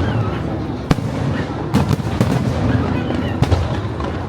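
Fireworks display: a steady rumble and crackle of bursting shells, punctuated by several sharp bangs about every half second to second.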